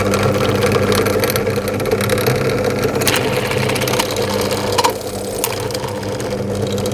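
Drill press motor running steadily at speed with an object turning in it, and a few sharp clicks about three and five seconds in.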